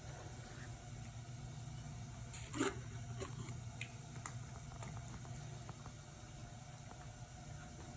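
Cats eating food: small wet chewing and clicking sounds over a low steady hum, with a brief louder knock about two and a half seconds in.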